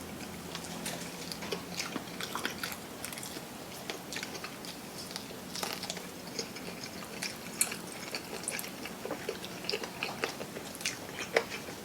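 Biting and chewing crispy fried chicken close to the microphone: a run of irregular small crunches and wet mouth clicks.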